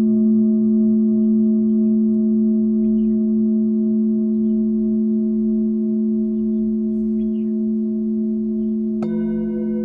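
Singing bowl ringing with a steady low hum and overtones, slowly fading; a bowl is struck again about nine seconds in, adding a fresh set of tones. Small birds chirp faintly now and then.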